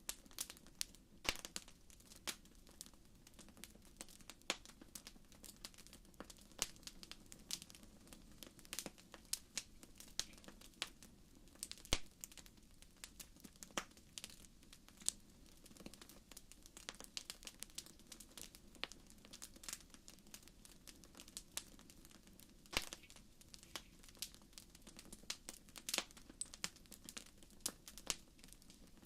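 Wood fire crackling in a fireplace: irregular sharp pops and snaps, a few louder ones, over a soft low rumble.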